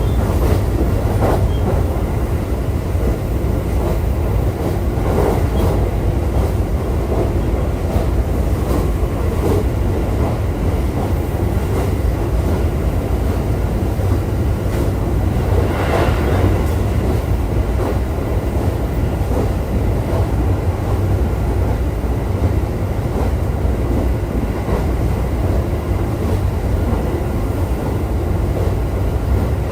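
E531-series electric multiple unit running on the line, heard from inside the passenger car: a steady low rumble of wheels on rail with scattered rail-joint clicks, the sharpest one about sixteen seconds in.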